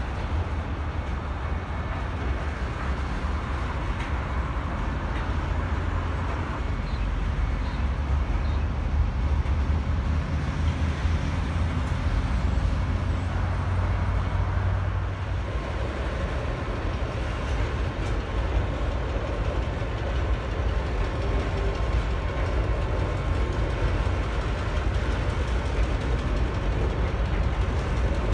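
Freight train of container wagons loaded with cement tank containers rolling past on the track, a steady deep rumble.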